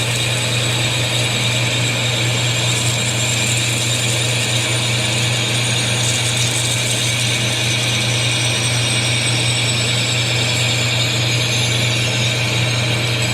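Metal lathe running while a parting tool cuts off a part, with cutting oil on the cut. A steady machine hum under a high cutting whine, and a high tone that slowly drops in pitch through the second half.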